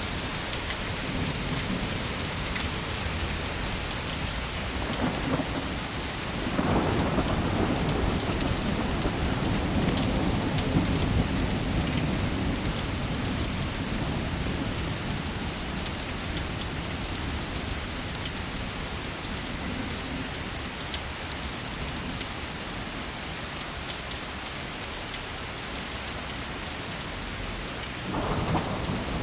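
Steady heavy rain hissing, with a long low thunder rumble rolling in about a quarter of the way through and another starting near the end.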